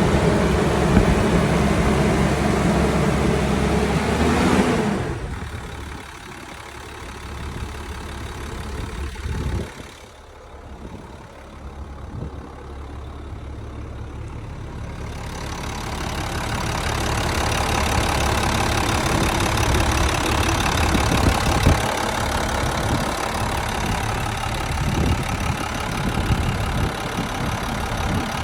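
International chip truck engine idling after a cold start. About five seconds in, the sound drops away sharply, then builds back gradually to a steady idle over the next ten seconds or so.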